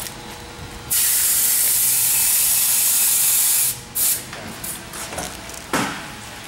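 Compressed air hissing out in bursts: a long, loud hiss of about three seconds starting about a second in, then two short hisses later on.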